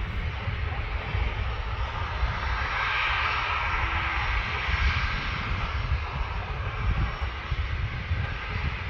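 Jet airliner engines, a rushing whine that swells to a peak three to five seconds in and then fades as the aircraft passes.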